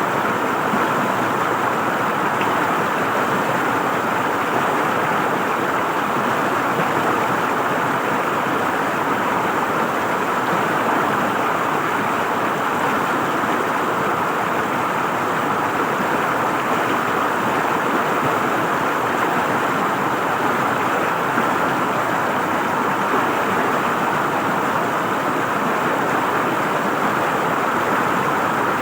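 River water flowing and gurgling over rocks, a steady, even rushing.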